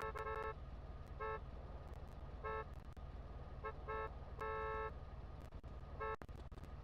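Vehicle horn sounded in a series of short toots of one steady pitch, one held a little longer past the middle, over a steady low rumble.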